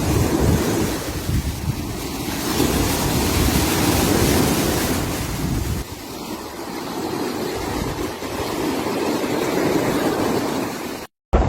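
Sea surf washing onto a beach, a steady rush that swells and eases, with wind buffeting the microphone. The sound cuts out briefly near the end.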